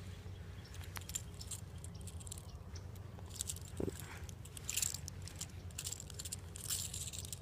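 Faint handling noise as a freshly caught bass is held and turned over: scattered small clicks and rustles over a low steady rumble.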